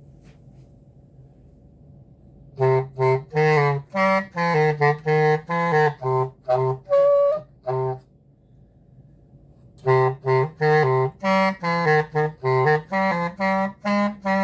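A woodwind instrument playing a quick phrase of short, separate notes in a low register, then, after a pause of about two seconds, a second similar phrase.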